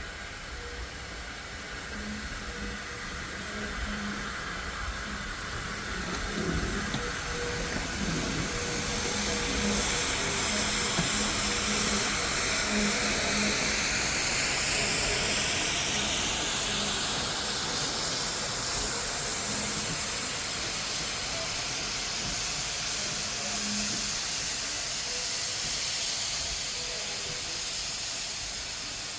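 Steam locomotive hissing steam, a steady hiss that builds over the first several seconds, is loudest around the middle, then eases slightly.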